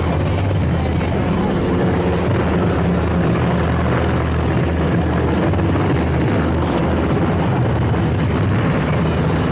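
Helicopter flying past, a loud, steady rotor and engine noise with a low hum that does not break.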